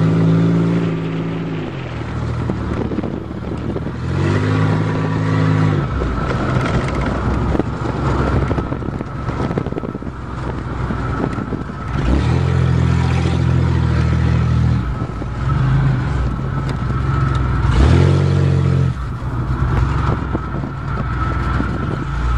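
Car engine pulling in spells, easing off in between, as the car is driven over rough ground. Rattling and scraping fill the gaps, and a steady high whine runs under it all.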